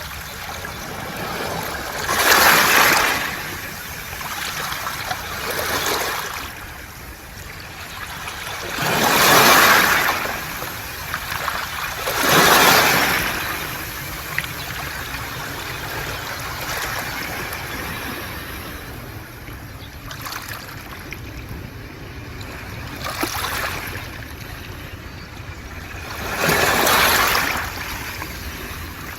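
Waves washing over a beach of smooth round pebbles (mongdol), with the stones rattling in the surf. About six waves swell up and die away, each lasting a second or two, over a steady wash of water.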